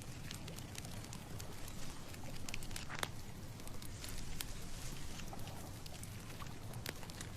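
Outdoor ambience: a steady low wind rumble with scattered light ticks and rustles, like dry leaves being rattled.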